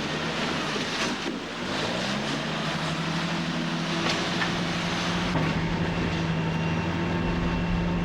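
A log loader's diesel engine runs and revs up about two seconds in, then holds steady while it unloads logs from a logging truck, with a few knocks.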